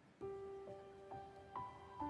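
Slow, gentle piano introduction on a backing track: after a brief hush, single notes and chords enter one after another and ring on.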